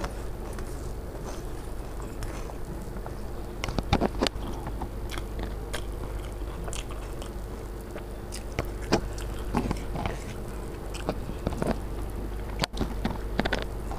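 Close-up eating: chewing a mouthful of puffed rice (muri) with spiced pea curry and biting a fried aloo chop, with irregular crisp crunches scattered through, the loudest about four seconds and nine seconds in.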